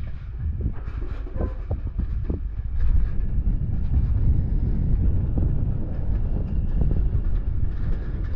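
A train running on the rails, a loud steady low rumble with clanking. There are a few short squeals, from wheels on the rails, between one and two and a half seconds in.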